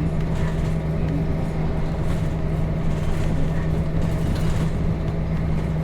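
A 1998 Nissan Diesel KC-RM211GSN bus's FE6 inline-six diesel engine running steadily at an even pitch, heard from inside the passenger cabin.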